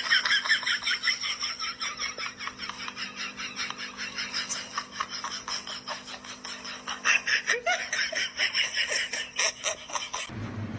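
High-pitched laughter in rapid, repeated pulses, over a faint steady hum, stopping abruptly near the end.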